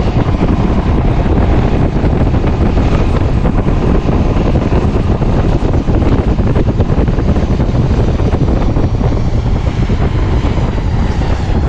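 Wind buffeting the microphone of an action camera on a moving motorcycle: a loud, steady rumbling roar of wind and riding noise that does not let up.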